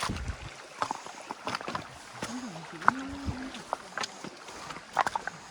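Water splashing and sloshing in a shallow stream, with irregular sharp splashes and knocks, as someone wades and works a fishing net. A brief low wavering sound, like a hum or voice, comes in the middle.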